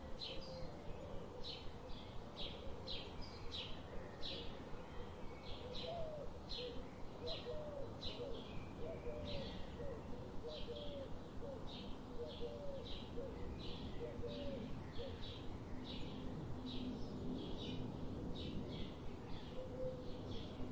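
Bird chirping over and over, about two or three short high chirps a second, with a fainter, lower wavering call in the middle stretch.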